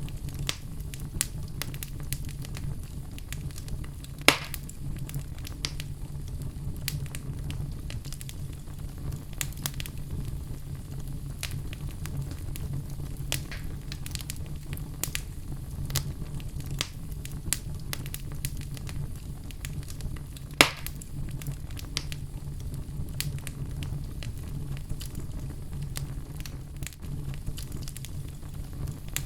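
Fire crackling steadily over a low rumble, with many small crackles and two louder pops, one a few seconds in and one about two-thirds of the way through.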